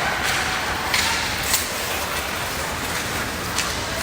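Steady noise of a hockey game in play, with three short sharp clacks of hockey sticks striking, about a second in, half a second later, and again near the end.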